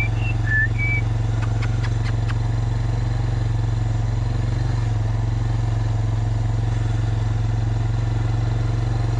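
Small vehicle's engine running steadily at low revs, a deep, even hum. A few short high chirps sound in the first second, and a brief run of light clicks about two seconds in.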